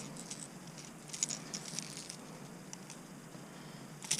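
Faint, scattered light clicks, taps and rustles, bunched about a second in, with one sharper click near the end: hands and tackle handling a freshly landed fish.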